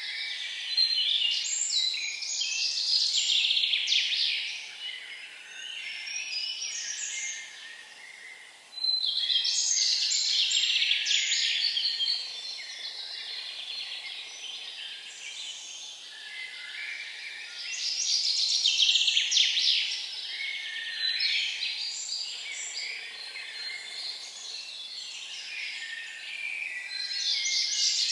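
Birdsong: loud phrases of a songbird lasting two to three seconds, returning about every eight to nine seconds, with softer chirping in between.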